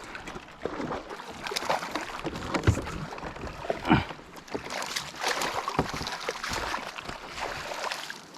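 Irregular knocks, scrapes and rustling of fishing gear being handled on a small boat while a hooked fish is stripped in and landed on a fly rod, with two louder thumps about three and four seconds in.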